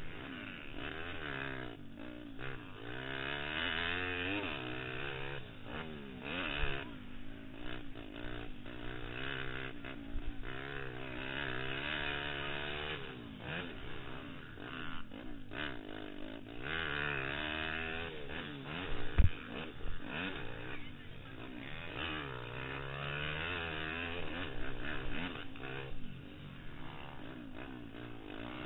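Pitster Pro LXR160 pit bike's single-cylinder four-stroke engine revving up and dropping back again and again through gear changes and throttle on and off, heard from the rider's helmet. A single sharp knock about two-thirds of the way through.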